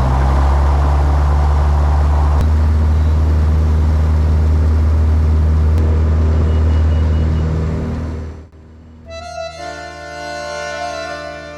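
Robin DR-400 light aircraft's piston engine and propeller running at a steady loud drone, which fades out about eight seconds in. Music with long held notes then takes over.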